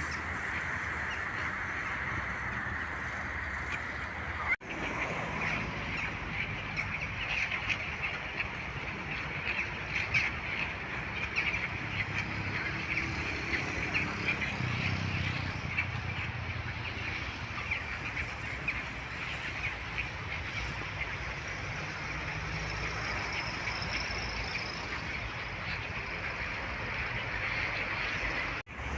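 A flock of birds calling around a pond: a continuous chatter of many short, overlapping calls, broken briefly about four and a half seconds in.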